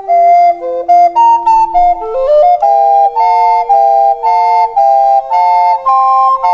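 Recorder playing a slow pop melody in short, separately tongued notes, over a lower held note that changes pitch a couple of times.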